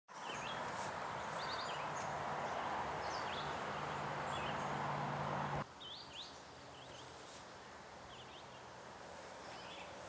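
Small birds chirping in short, quick repeated calls, over a steady rushing background noise with a faint low hum that drops away suddenly a little past halfway.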